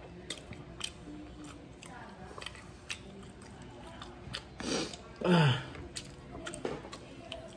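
Chewing and biting on a sauced buffalo chicken wing eaten by hand, with small wet clicks and smacks. About five seconds in comes a brief, louder voice sound that falls in pitch.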